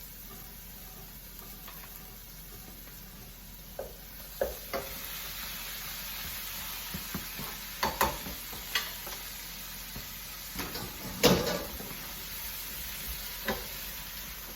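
Chopped onion, garlic and bell peppers sizzling in butter in a frying pan, with a steady hiss that gets a little louder about four seconds in. A utensil knocks against the pan about eight times as the vegetables are stirred; the loudest knock comes about two-thirds of the way through.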